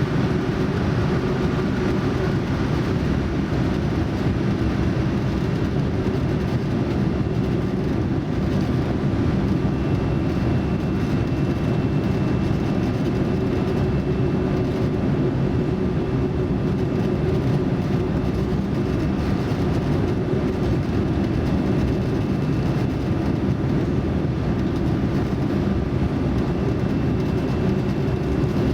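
Steady low drone of engine and airflow noise heard inside the cabin of a Boeing 787-9 airliner, with faint steady whining tones above it.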